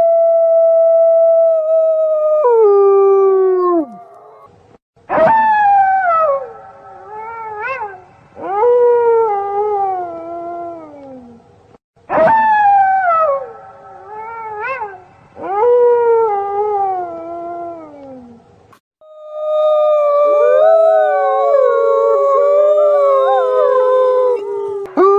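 A wolf pack howling. A long held howl drops in pitch and fades. Then come two passages of falling howls broken by short upward yelps, each starting abruptly, and near the end several wolves howl together in overlapping chorus.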